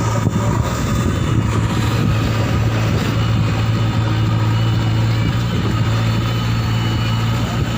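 Heavy diesel machinery engine running steadily, with an even low hum.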